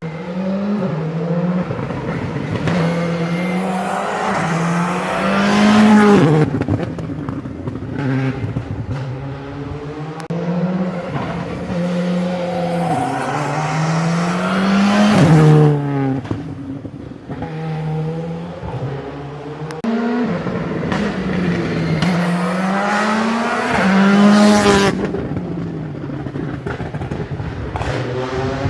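Rally car engine under hard acceleration, climbing in steps through upshifts. Each run builds to a loud pass and drops in pitch as the car goes by, three times.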